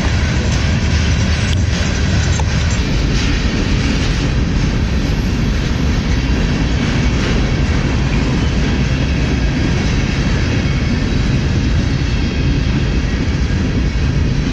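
A train rolling past close by: a loud, steady rumble of wheels on the rails, with a few faint clacks in the first few seconds.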